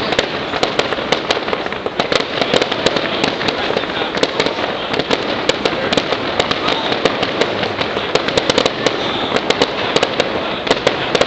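Fireworks display going off in a rapid, continuous barrage of sharp bangs and crackles, many reports a second with no pause.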